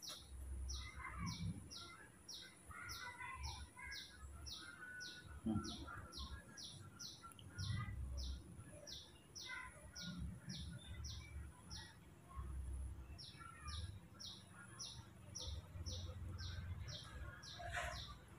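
A small bird calling over and over: a short, high, falling chirp about three times a second, with a pause of about a second a little past halfway.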